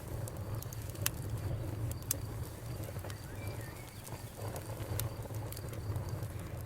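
Campfire burning: a steady low rumble of flames with irregular sharp crackles and pops from the burning wood, the loudest snaps about a second and two seconds in and again about five seconds in.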